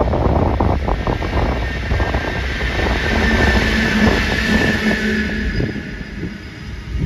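Diesel locomotive running past close by, followed by the steady rumble of double-deck passenger cars rolling through behind it.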